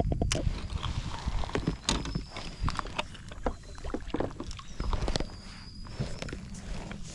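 Kayak handling sounds: scattered light knocks and clicks on the hull over a low rumble, with a faint high thin whistle about two seconds in and again about five seconds in.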